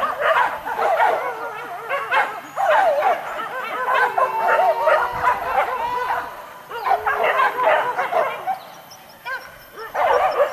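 A pack of hunting dogs yelping and baying excitedly, many high yips overlapping, as they chase a wild boar. The calls thin out briefly past the middle, then pick up again near the end.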